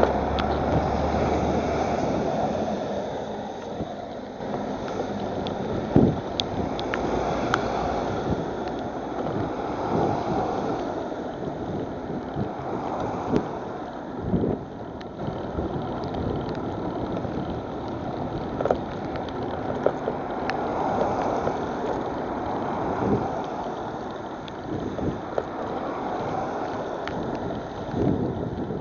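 Wind rushing on the microphone over the hiss of bicycle tyres on a wet road, with a few short knocks.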